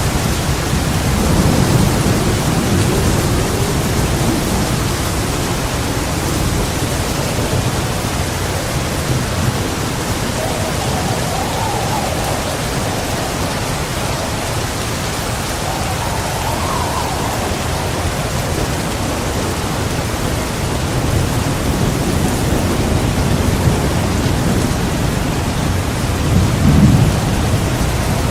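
Heavy rain falling steadily with low rolling thunder, rumbling more strongly near the start and again near the end.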